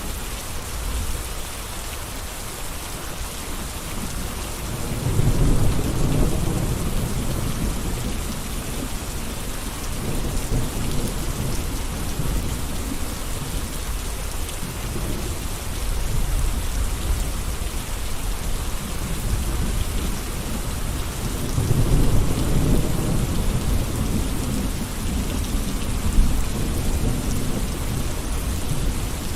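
Steady rain falling and pattering on surfaces, an even hiss. A low rumble swells up under it twice, about five seconds in and again after twenty seconds.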